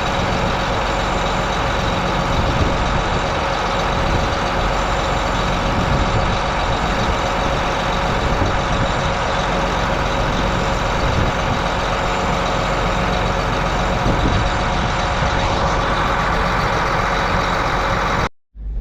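An engine running steadily at constant speed, with a dense, unchanging drone. It cuts off abruptly near the end.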